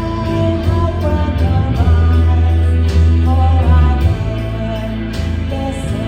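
A live band playing loudly, with heavy held bass notes, drums with a few cymbal crashes, and a singing voice over it.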